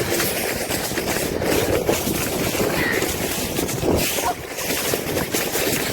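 Steady scraping rush of a sled sliding over packed snow, with wind buffeting the microphone.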